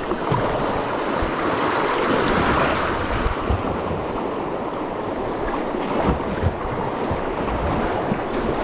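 Rushing whitewater around a kayak going down a steep river rapid, with wind buffeting the microphone and scattered low knocks.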